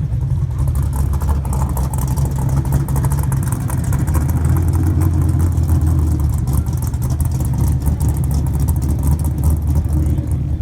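A car engine running steadily with a deep, low-pitched sound that swells a little about four seconds in.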